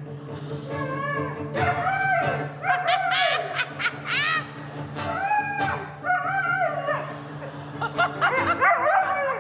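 A dog vocalising into a microphone in a string of drawn-out cries that rise and fall in pitch, over steady guitar chords; the dog is 'singing' along to the guitar.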